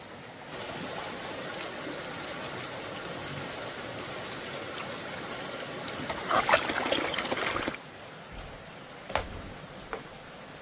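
Water trickling and splashing, louder for about a second and a half near the end, followed by two light knocks.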